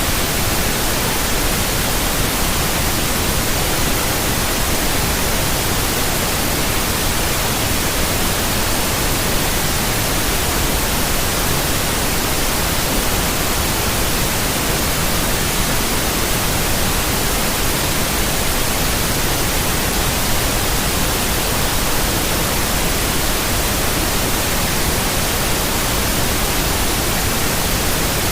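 Steady white noise: an even, unchanging hiss spread across the whole range from deep to very high.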